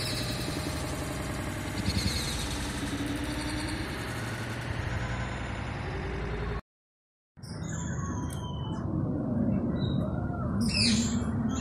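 A dense, even wash of sound that cuts off abruptly about six and a half seconds in. After a brief silence come bird calls: short, high chirps over a steady background hum, the loudest call near the end.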